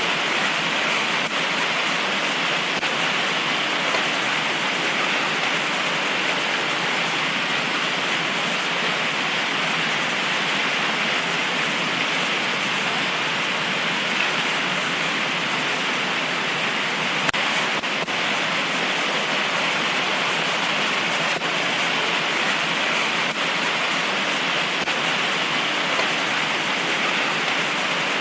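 Heavy tropical rain pouring steadily in a dense, even hiss, with a faint sharp tick about 17 seconds in.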